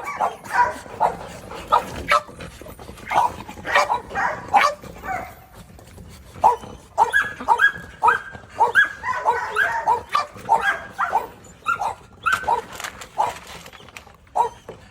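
Presa Canario puppies barking and yipping: many short, high barks in quick irregular strings, often overlapping one another.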